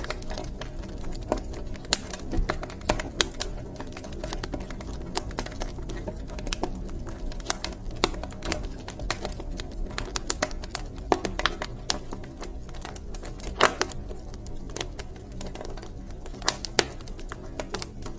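Wood fire crackling in a fireplace: irregular sharp pops and snaps, several a second and some louder than others, over a steady low rumble of burning.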